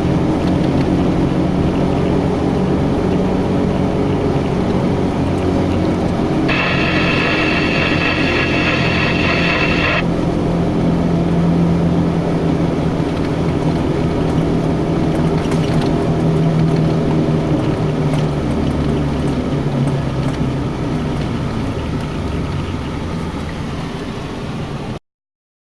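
A truck engine running steadily with a low hum. For about three and a half seconds, starting some six seconds in, a steady high tone with overtones sounds over it. The engine sound stops abruptly near the end.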